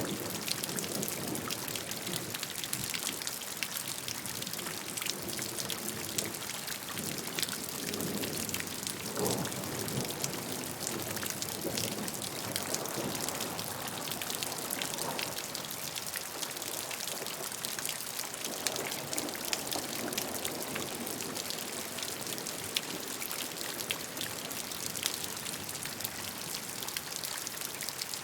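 Steady rainfall, many drops pattering on a surface, with a faint low rumble rising and falling a few times.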